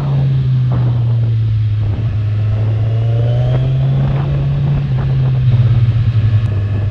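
Kawasaki Z1000R's inline-four engine through its stock exhaust, running at steady low revs under way. The note eases lower with a brief burble about five and a half seconds in.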